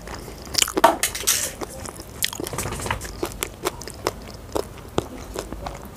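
Close-miked chewing of fried rice and chicken: a run of wet mouth smacks and small crunches, thickest and loudest about a second in.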